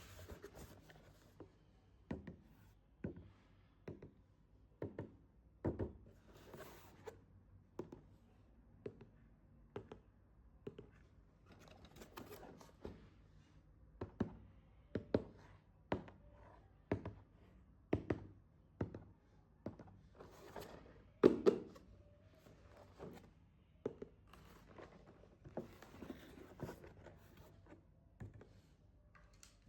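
Hands unpacking a toy: a series of light plastic-and-cardboard knocks and thunks, roughly one a second, with stretches of rustling and tearing packaging, the loudest knock about two-thirds through.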